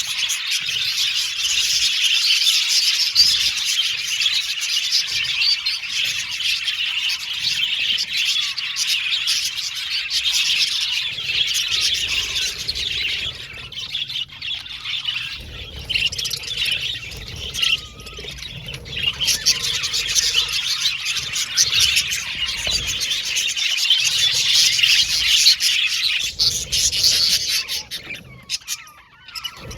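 A flock of budgerigars chattering and chirping together in a dense, continuous warble, easing off briefly partway through and again near the end.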